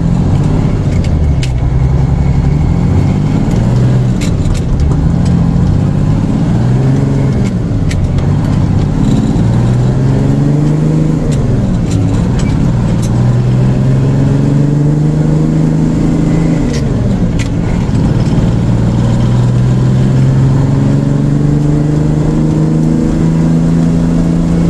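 International truck's diesel engine pulling away and accelerating through the gears, its pitch climbing and then dropping at each shift, then holding steady for a few seconds before climbing again near the end. A few sharp clicks or rattles come through over it.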